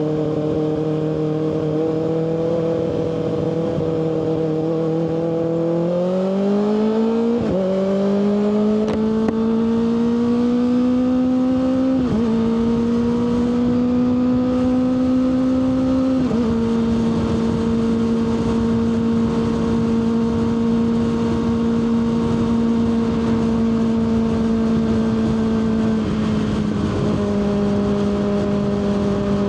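Kawasaki ZX-6R 636 inline-four engine accelerating under way, its pitch climbing with brief dips at gear changes about 7, 12 and 16 seconds in. It then holds steady cruising revs, easing a little lower near the end.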